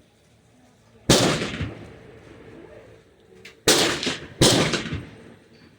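Three gunshots: one about a second in, then two close together, less than a second apart, near four seconds. Each is a sharp crack with a short echoing tail.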